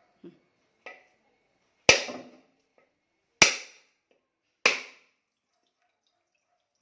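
A whole coconut being cracked open by hard blows to its shell: two light taps, then three loud, sharp strikes about a second and a half apart.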